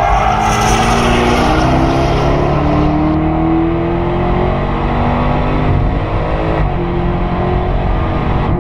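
Jaguar F-Type SVR's supercharged 5.0-litre V8 driven hard on track: heard first from trackside as the car goes past, then from inside the cabin, with the engine note climbing as the revs rise.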